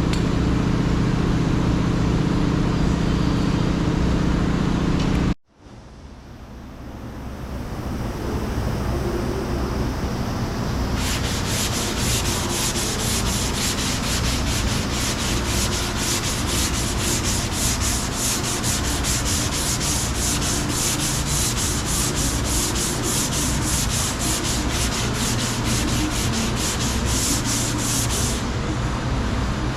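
Sanding of Bondo body filler on a car quarter panel: a rasping, rhythmic scrubbing of about three or four strokes a second. Before it, a steady low hum that cuts off abruptly about five seconds in.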